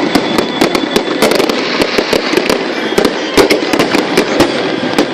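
Aerial fireworks display going off: a dense, irregular run of sharp bangs and crackles, several a second.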